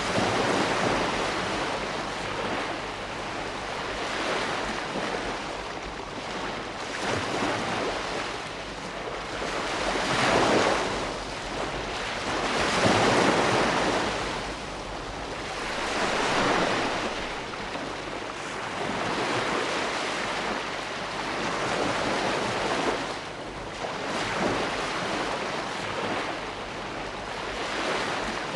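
Ocean waves breaking and washing on a shore, a continuous surf hiss that swells and ebbs every few seconds, with the strongest surges about a third and halfway through.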